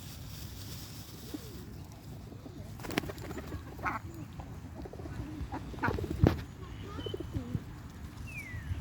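Birds calling in short, low, wavering notes, with a few sharp knocks and a brief high note falling in pitch near the end.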